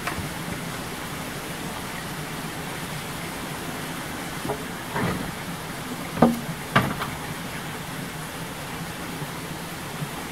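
A steady outdoor hiss with a few short knocks in the middle, the loudest two close together about six and seven seconds in.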